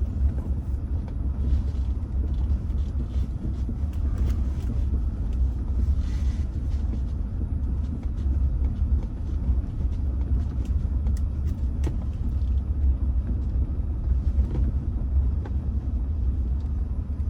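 Low, steady rumble of a Rolls-Royce Silver Spirit driving slowly, heard from inside the cabin, with a few faint ticks.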